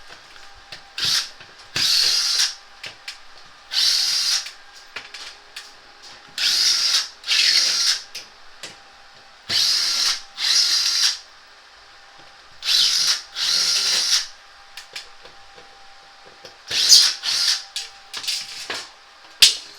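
Power driver running in short bursts of about a second, often two in quick succession, backing out screws while an air conditioner is taken down.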